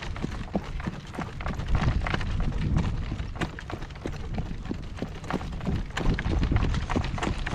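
Horse's hoofbeats clopping as it pulls a cart, a run of short sharp strikes, over low rumbling wind buffeting the microphone.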